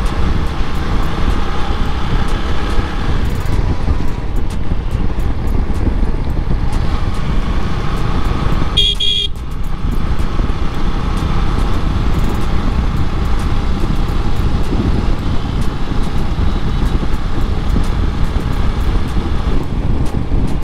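Steady engine and road noise of a motorcycle being ridden, with a vehicle horn honking once, briefly, about nine seconds in.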